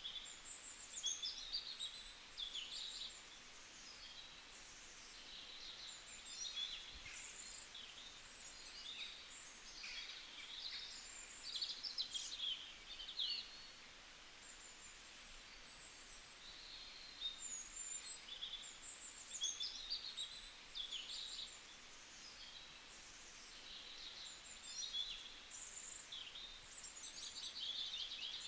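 Several small songbirds chirping and warbling in quick, high-pitched phrases, with a busy spell in the first half, a quieter stretch around the middle, and more song toward the end, over a faint steady hiss of forest ambience.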